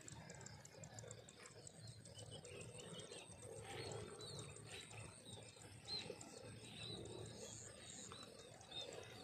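Faint outdoor ambience with scattered short bird chirps over a low rumble.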